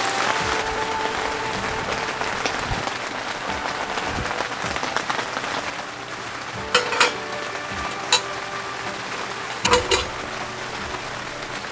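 Steady patter of rain, with a few sharp metallic clinks a little past halfway as metal cookware and stove parts are handled on a camp stove.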